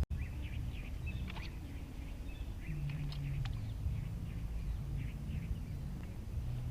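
Small birds chirping in short, scattered calls over a low steady rumble of outdoor background noise.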